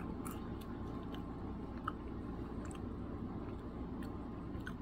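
A person chewing potato chips, with scattered faint crunches and mouth clicks, over a steady low background hum.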